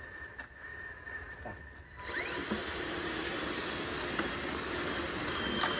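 Electric motor and gear whine of a radio-controlled construction machine, starting suddenly about two seconds in and then running steadily with a hiss-like high edge.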